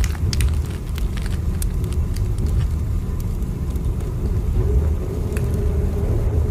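Train running: a steady low rumble with a faint hum, and scattered light clicks and ticks, most of them in the first second or so.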